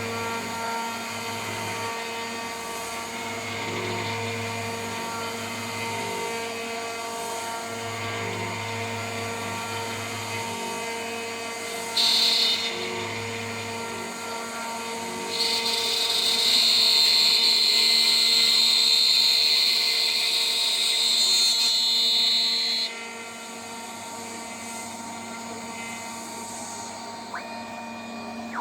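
DIY CNC router's spindle running at about 14,000 RPM with a 3 mm three-flute end mill cutting, over a low stepper-motor hum that pulses on and off as the axes move. A brief high whine of the cut about 12 seconds in, then a louder, steady high whine from about 15 to 23 seconds in.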